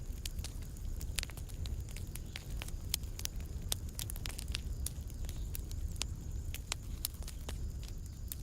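Fire crackling in a fireplace: a steady low rumble of burning with frequent, irregular sharp pops and snaps, several a second.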